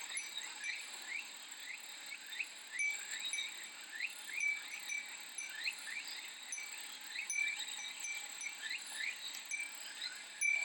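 Cicadas droning steadily at a high pitch, overlaid by many short repeated chirps and quick rising calls.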